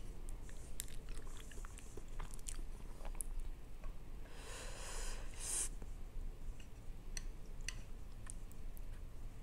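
Close-miked sounds of a person eating instant noodles: wet chewing with many small clicks, and a short airy burst, louder than the rest, as a mouthful of noodles is taken in about four and a half seconds in.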